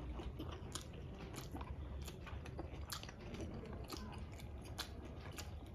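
A person chewing a mouthful of food, with soft, irregular wet clicks and smacks of the mouth.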